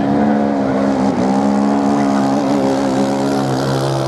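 Racing motorcycle engines held at high revs, the pitch dipping briefly about a second in, with a second, lower-pitched engine joining about halfway through.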